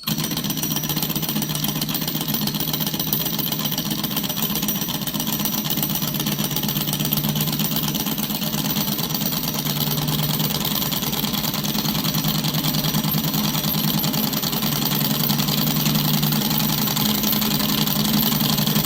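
Home-built single-cylinder magnet engine running steadily with a fast, even mechanical rattle as its flywheel spins.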